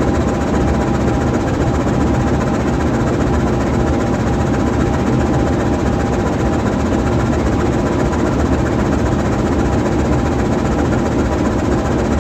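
GE U20C diesel-electric locomotive idling while standing still: its V12 diesel engine running at a steady idle.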